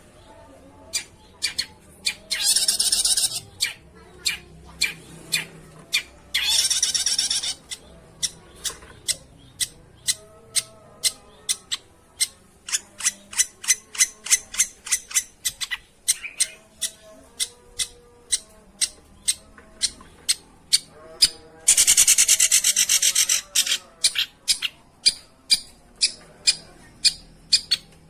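Long-tailed shrike calls: a long run of sharp clicking notes that come faster as it goes on, broken by three harsh rasping scolds, two short ones in the first eight seconds and a longer one past the middle. It is a lure recording meant to make silent shrikes answer.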